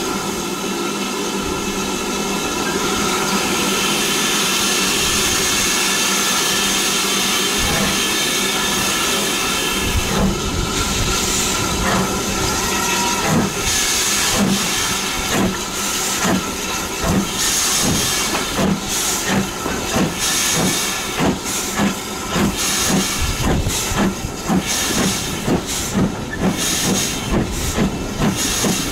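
Steam locomotive hissing steadily, then starting away: about ten seconds in, exhaust chuffs begin, slow at first and gradually quickening.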